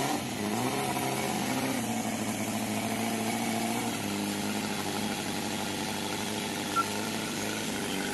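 Cison L4 inline four-cylinder gasoline model engine running in an RC truck. Its pitch rises and falls over the first couple of seconds as the throttle changes, then it runs steadily. There is a short click near the end.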